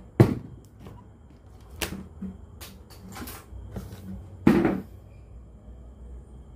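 A few sharp clicks and knocks from handling a cassette radio under repair, the loudest just after the start and about halfway through, over a low steady hum.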